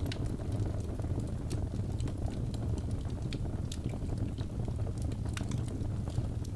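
Crackling wood fire: a steady low rumble with irregular sharp pops and snaps scattered throughout.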